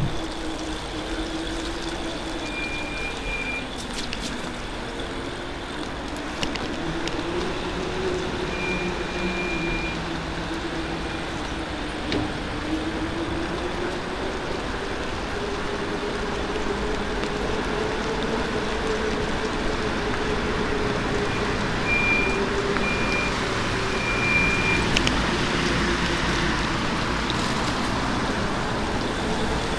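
Electric bike's motor whining steadily while riding, its pitch drifting up and down with speed, over a constant hiss of wind and tyre noise. Short high beeps sound in a few brief clusters.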